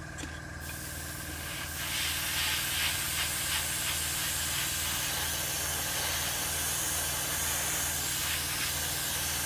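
Airbrush spraying primer: a steady air hiss that starts about half a second in and grows louder around two seconds, over a low steady hum.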